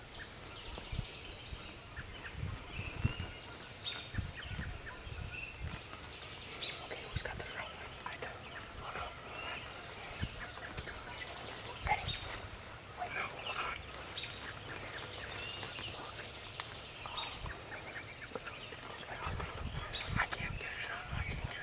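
Wild turkeys giving soft, scattered calls, mixed with chirping songbirds, over a low outdoor rumble with occasional dull thumps.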